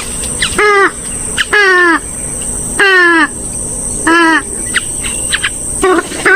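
Loud, harsh calls of a rail-family waterbird of the swamphen and moorhen kind. Four calls of about half a second each fall slightly in pitch and come roughly a second apart, then two shorter calls follow near the end. Faint thin chirps sound between them.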